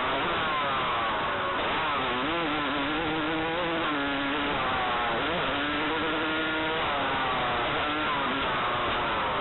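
Motocross dirt bike engine being ridden hard, its pitch climbing and dropping again and again as the throttle is worked and gears change, with a deep drop and fresh climb about five seconds in.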